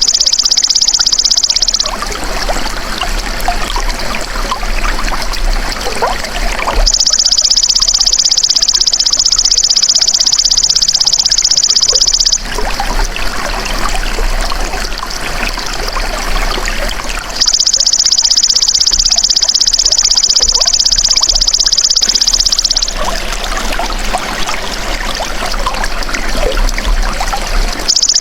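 Belalang emas insect singing in high-pitched buzzing trills of about five seconds each, alternating with equally long stretches of trickling water. The trill cuts off just before two seconds in, returns at about seven and seventeen seconds, and starts again near the end.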